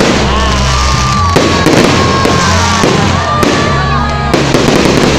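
Fireworks crackling and popping over loud music with a heavy bass line.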